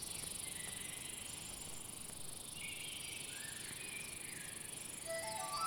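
Steady high-pitched chirring of insects such as crickets, with faint short bird-like chirps. Soft music with held notes comes in near the end.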